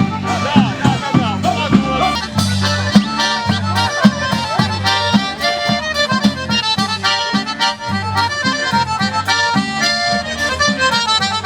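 Accordion playing a folk tune: a regular pulsing bass and chords under a running melody.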